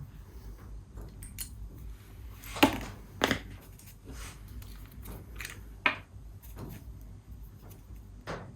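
Small metal parts and tools being handled on a workbench: a few separate sharp clicks and clinks, the loudest about two and a half seconds in.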